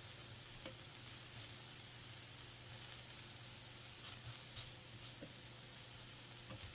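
Food sizzling on a grill, a steady hiss with a few faint clicks.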